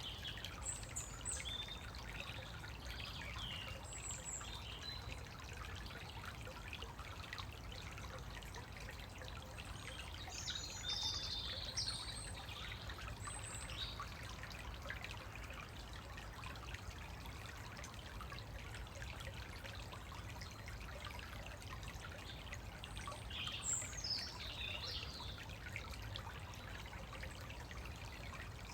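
Shallow woodland stream trickling steadily, with birds calling now and then over it, in short high calls, some of them gliding.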